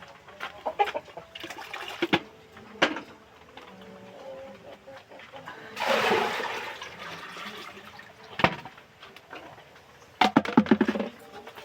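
Scattered knocks and clicks at a chicken pen, a short rushing pour about six seconds in, and a quick flurry of clattering near the end.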